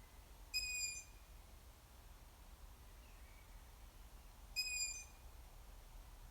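Juvenile long-eared owl giving its high, squeaky begging call twice, about four seconds apart, each call a short whistle of about half a second, with a much fainter call between them.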